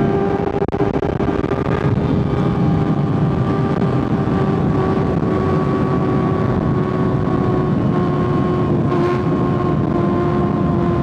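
Kawasaki ZX-6R 636 inline-four engine and exhaust heard on board, cruising at steady highway revs over a constant rush of wind and road noise. The pitch eases slightly about a second in, then holds nearly steady.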